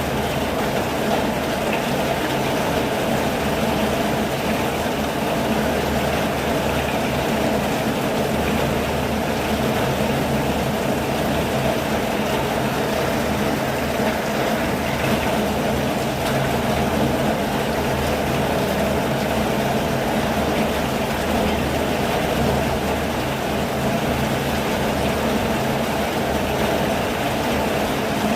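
Steady rain falling, an even rushing noise with a low rumble underneath that holds the same throughout.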